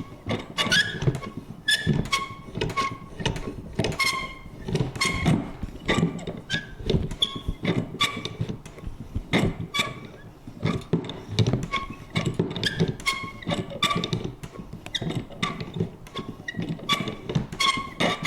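Vintage paper punch worked over and over: a steady run of clicks and knocks, about three a second, many with a short, high creak.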